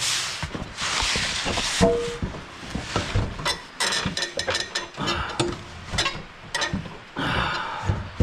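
Sharp metal knocks and clanks, a dozen or so in quick succession through the middle, with one short metallic ring about two seconds in. The blows are an attempt to shock loose the stuck blade bolt on a Toro TimeCutter mower.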